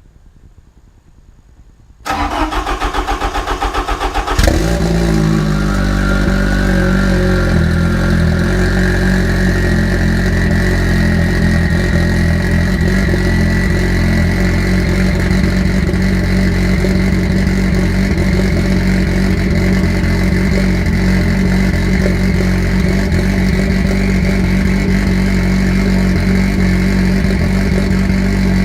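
Car engine cranked by the starter for about two seconds, catching and settling into a steady idle, run to burp air out of the cooling system after a radiator replacement. A thin whine climbs slowly in pitch over the first several seconds of idle.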